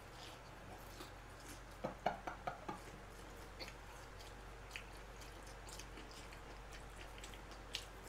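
Faint mouth sounds of a man chewing food, with a few short clicks about two seconds in, over a steady low electrical hum.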